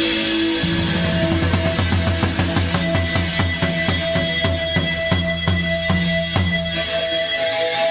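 Rock band playing the instrumental end of a song without vocals: drums and bass hit together in a run of repeated strikes, about three to four a second, that stop about six and a half seconds in, leaving a chord ringing.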